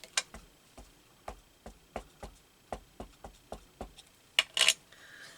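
A string of light taps and clicks from craft supplies being handled on a tabletop, then two louder rustling scrapes about four and a half seconds in.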